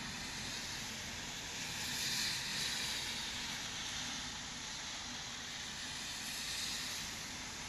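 Steady rain falling, an even hiss that swells slightly now and then.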